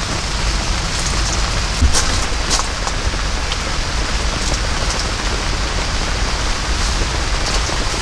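Heavy rain pouring steadily, with a low rumble underneath and sharp individual drop strikes scattered throughout.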